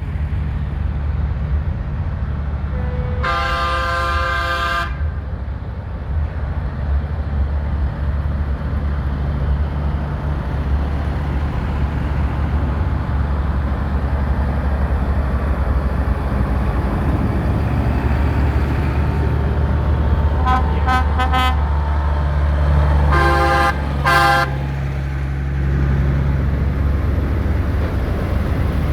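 Diesel tractor engines running steadily, with horns tooting over them: one long blast about three seconds in, a quick run of short toots around twenty seconds, and two more blasts just after.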